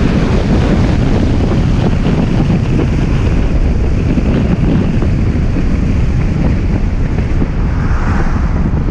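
Strong wind buffeting the microphone over a steady low rumble, with no clear tones or separate events.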